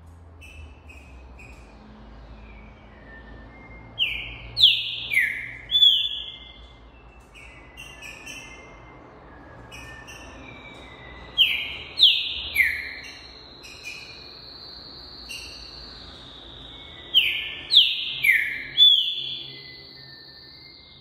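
Green-winged saltator (trinca-ferro) singing. It gives three loud phrases a few seconds apart, each of about four clear whistled notes sliding downward, with soft short chirps in between.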